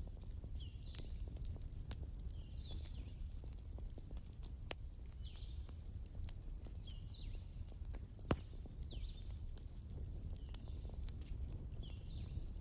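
Wood fire crackling, with scattered small snaps, a few sharp loud pops and a steady low rumble. Short high chirps repeat about once a second, with a quick high trill early on.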